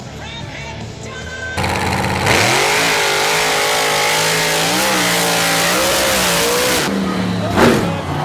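Mini monster truck engine running hard and revving, its pitch climbing and wavering, with a sharp surge near the end.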